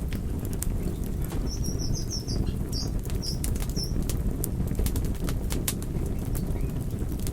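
Wood fire crackling, with frequent sharp pops over a steady low rumble. A run of short high chirps sounds from about one and a half to four seconds in.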